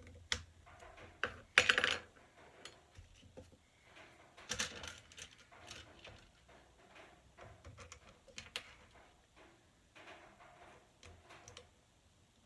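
Irregular clicks and clattering of small hard parts being handled and set down, with a louder rattle just under two seconds in and another about four and a half seconds in.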